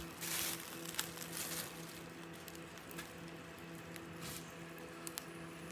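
Butter squeezed from a tube straight onto slices of bread: a few faint, soft squishy hisses, the first and clearest just after the start, over a steady low hum.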